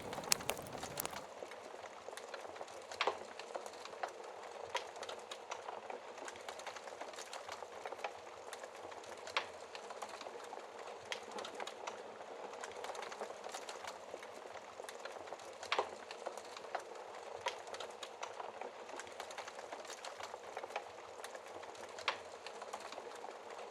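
Log fire crackling, with irregular small snaps and a few louder pops, over a steady hiss of rain.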